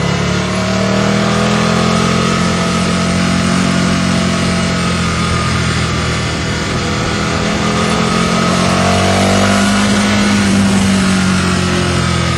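Aprilia RSV Mille's V-twin running through a Micron aftermarket exhaust while being ridden: the engine note climbs under throttle, dips around the middle, climbs again about eight seconds in and eases off near the end, over a steady rush of wind.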